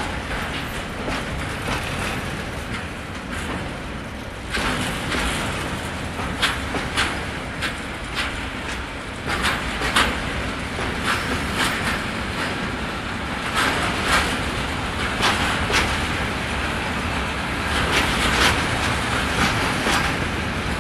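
Train led by locomotive 111Ed-005 rolling past on the line, a steady rolling rumble. From about four seconds in it gets louder and is broken by frequent sharp wheel clacks over rail joints.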